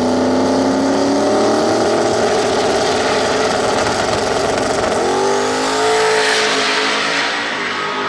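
Drag race car engine at full throttle, accelerating hard, its pitch climbing. About five seconds in the pitch drops and climbs steeply again.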